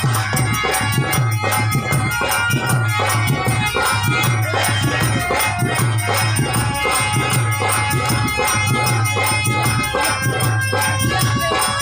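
Harmonium playing held reed notes of a melody over a steady rhythmic percussion accompaniment with a shaken rattle, the low beat falling about twice a second.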